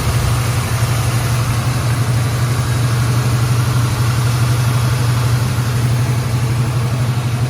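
1987 Chevrolet R10 pickup's engine idling steadily with a strong, even low hum.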